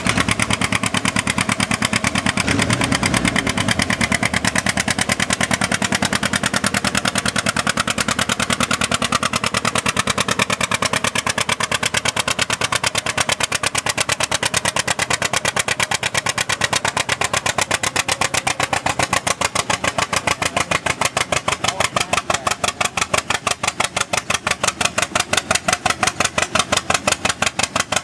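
John Deere Model A tractor's two-cylinder engine putting along under load in a tractor pull, a steady train of firing beats. Over the last several seconds the beats grow slower and more distinct.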